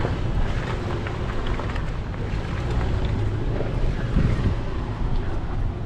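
Toyota 4Runner crawling slowly up a rocky trail in four-wheel low, its engine running low and steady, with wind buffeting the microphone.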